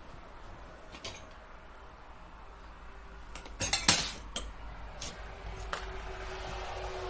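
A few sharp clinks and knocks of hard objects, with the loudest cluster about halfway through.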